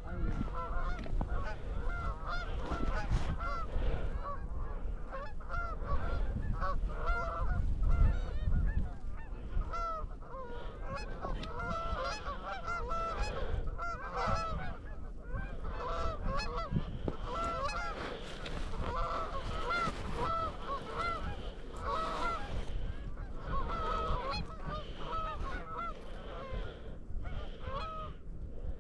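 Geese honking and clucking, many short calls overlapping continuously, over a low wind rumble.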